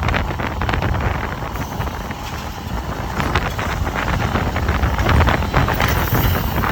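Wind buffeting the microphone over a Mack side-loader garbage truck running, with frequent short knocks and rattles.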